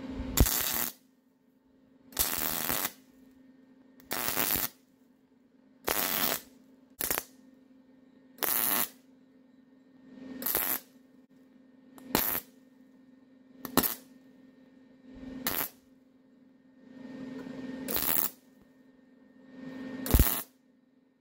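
MIG welder laying short tack welds, about a dozen brief crackling bursts spaced every second and a half to two seconds, with a faint steady hum underneath. This is the sound of washers being stitch-welded onto rebar stakes with fresh 0.035 wire and a new contact tip.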